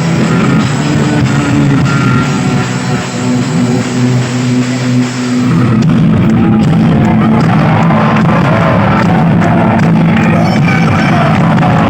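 Live rock band playing loudly, heard from the audience. About five seconds in the band comes in fuller and louder.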